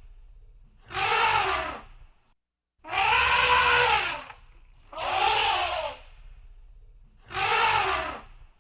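Elephant trumpeting: four loud calls of about a second each, about two seconds apart, each rising and then falling in pitch.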